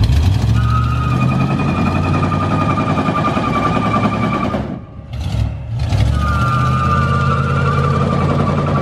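Pickup truck's engine running hard while its rear tyres, driven through a Yukon Duragrip limited-slip differential, squeal in a steady high note. This happens in two pulls, with a short break about five seconds in.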